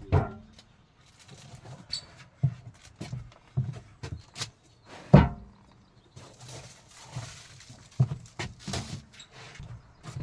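A series of irregular thuds and knocks, about one every half second to a second, the loudest about five seconds in.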